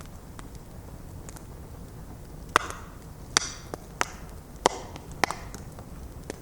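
Bonfire of stacked logs burning with a steady low rumble, broken by about five loud, sharp pops of crackling wood in the second half, some followed by a brief hiss.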